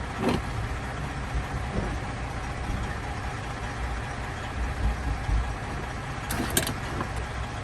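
Steady low rumble of a truck engine idling. A sharp click comes just after the start, and a quick cluster of plastic clicks about six and a half seconds in, as a speaker's wiring connector is unplugged.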